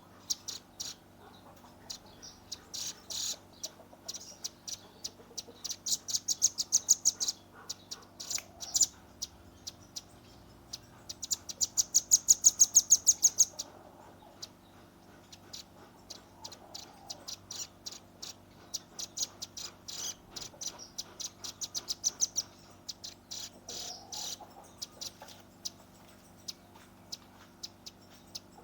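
Velvet-fronted nuthatch (red-billed rambatan) giving rapid runs of sharp, high chattering notes, each run lasting one to three seconds, with single notes between the runs. A faint steady low hum sits underneath.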